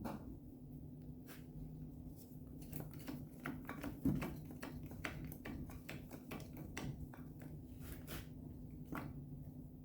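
Irregular light knocks, clicks and scrapes of a piece of wood being worked against truck sheet metal to push the panel out, one knock about four seconds in louder than the rest, over a steady low hum.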